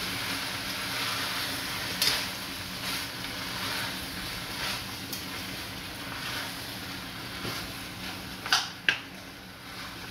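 Chicken feet, cow heel and onions frying in oil in an enamelled pot, a steady sizzle that grows fainter, while a metal spoon stirs and scrapes; the spoon knocks against the pot once about two seconds in and twice in quick succession near the end.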